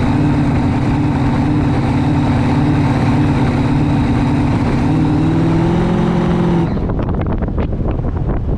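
Jet drag boat's racing engine running hard and steady, its pitch creeping up slightly, then cut off abruptly about two seconds before the end. After the cut, wind and water rush past with scattered splashes.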